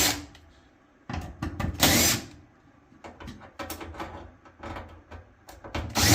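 Screws being backed out of a dryer's sheet-metal front panel: two short bursts of a screwdriver bit spinning, one about two seconds in and one near the end, with sharp clicks and metal handling between them.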